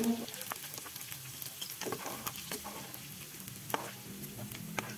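Small dried anchovies (teri nasi) sizzling and crackling in hot frying oil in a wok, with a few sharper clicks from a metal slotted spatula scraping the pan as the fried fish are lifted out.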